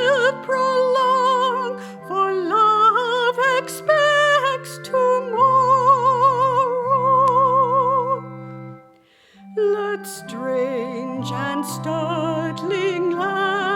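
A hymn sung by a solo woman's voice with wide vibrato over sustained keyboard chords. The voice drops out briefly about nine seconds in, between phrases.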